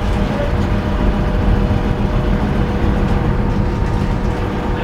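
Canal tour boat's engine running steadily: a continuous low rumble with a faint steady hum, heard from on board.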